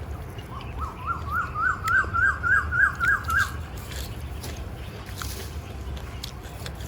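A bird calling: a run of about ten quick, sharp repeated notes that climb slightly in pitch and grow louder, then stop about three and a half seconds in.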